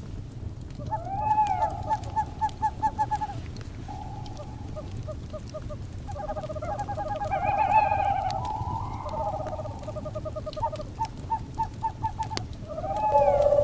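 Owls calling in overlapping runs of quick, pitched notes and some longer held notes, with faint fire crackles underneath. A louder, steadier call starts just before the end.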